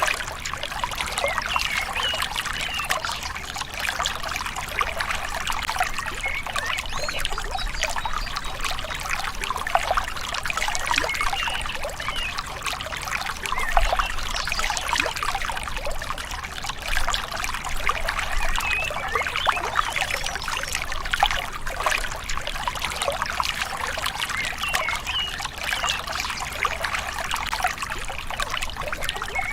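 Shallow river water trickling and gurgling over stones, a steady babble without pause.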